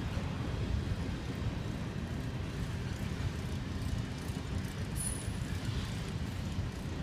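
Covered hopper cars of a Canadian Pacific grain train rolling past: a steady low rumble of steel wheels on the rails.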